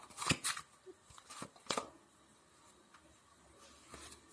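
Tarot cards being handled and laid out: about four short, crisp card snaps in the first two seconds, then faint handling.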